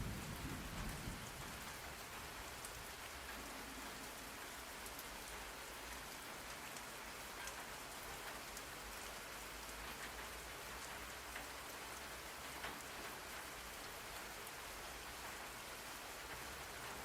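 Steady rain falling, an even hiss with scattered drop ticks. A low rumble of thunder fades out in the first second or so.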